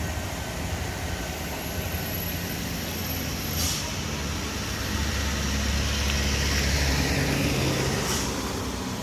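Heavy truck's diesel engine running under load on a steep climb, its drone growing louder for a few seconds after the middle, with two short hisses about three and a half and eight seconds in.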